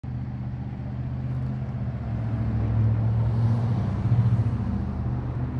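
A car engine idling steadily, a little louder around the middle.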